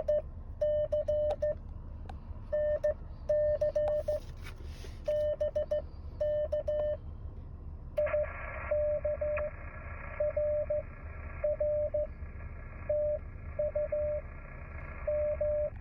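Morse code (CW) from an amateur radio transceiver: a single steady beep keyed on and off in dots and dashes. About halfway through, receiver hiss comes up behind the beeps.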